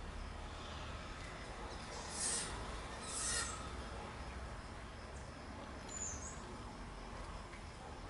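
Small birds at a garden fruit dish: two short rushing bursts of noise about a second apart, roughly two and three seconds in, then one brief high chirp near six seconds, over a steady low background rumble.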